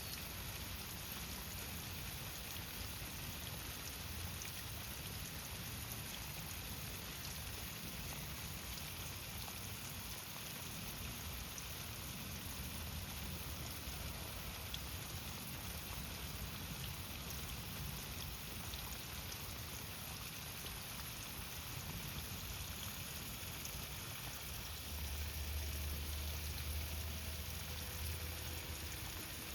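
Steady outdoor hiss with scattered faint ticks, and a low rumble that swells for a few seconds near the end.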